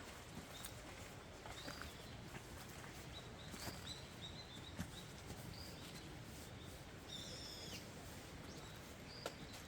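Small birds chirping intermittently, short high calls scattered throughout, with one longer call about seven seconds in, over a faint outdoor hiss.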